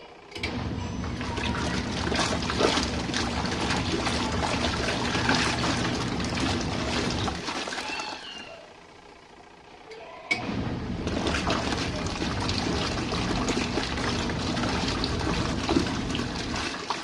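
Compact RV washing machine agitating its wash load: the motor hums and water sloshes for about seven seconds, stops for a couple of seconds, then starts again about ten seconds in, each run opening with a click.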